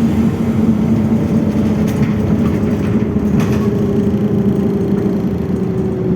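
Cabin sound of a BKM 32102 trolleybus on the move: the electric traction drive whines over a steady rumble of road and tyre noise, the whine slowly falling in pitch through the second half.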